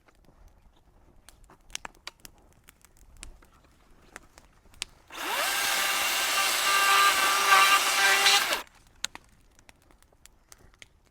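An electric power tool motor spins up quickly from rest, runs steadily for about three and a half seconds, then stops suddenly.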